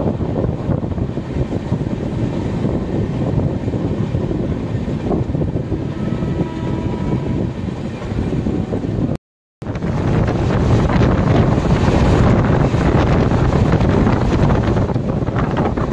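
Running noise of a moving Indian Railways express train, a steady low rumble with wind buffeting the microphone. About nine seconds in, the sound cuts out for an instant and comes back a little louder.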